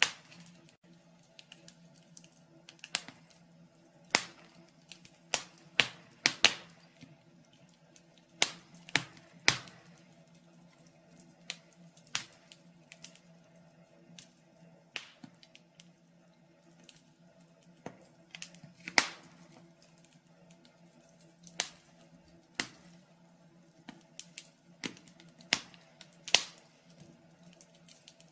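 Wood fire in a fireplace crackling: sharp, irregular pops and snaps about every second or two, sometimes in quick clusters, over a faint steady low hum.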